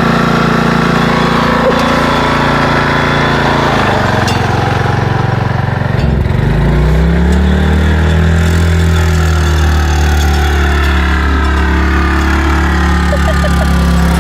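Riding lawnmower engine running steadily. Its note changes about four seconds in, then dips briefly and climbs back about six seconds in, and runs steady again.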